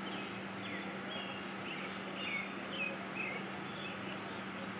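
Small birds chirping in short, scattered calls over a steady outdoor background hiss and a constant low hum.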